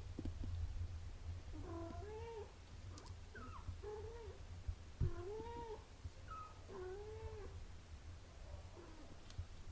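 Cats mewing: a run of about ten short mews, each rising then falling in pitch, at two or three different pitches, over a low rumble.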